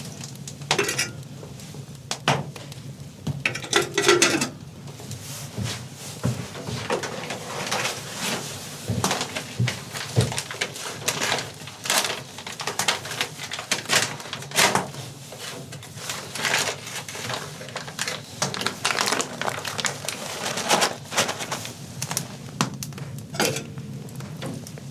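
Metal pots, pans and utensils clinking and knocking irregularly, many small strikes, over a steady low hum.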